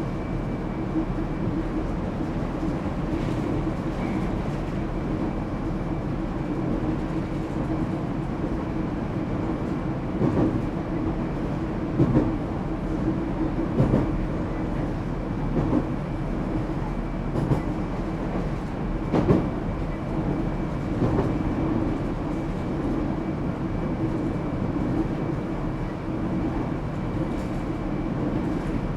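Echigo Tokimeki Railway ET127 series electric train with Toyo GTO-VVVF traction, running at speed between stations, heard from inside the car. Steady rolling noise with a constant hum, and a series of sharp wheel clacks over rail joints through the middle stretch.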